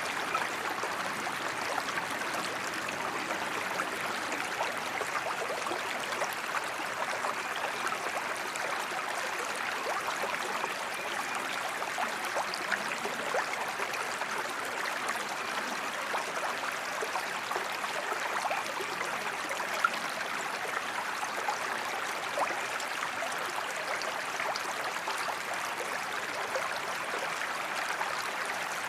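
Steady waterfall sound: gently running water, an even rushing hiss sprinkled with small splashes and drips.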